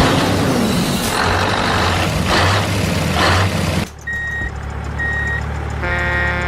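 Truck engine running with a loud hissing rumble that swells a few times, then cuts off suddenly. A reversing alarm follows, beeping about once a second, with a harsher buzzing tone near the end.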